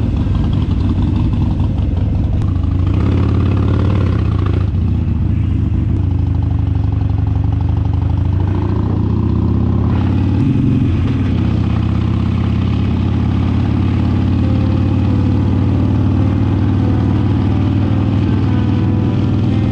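Motorcycle engine running steadily. Its pitch dips and rises a few times in the first ten seconds or so as the engine speed changes, then holds even.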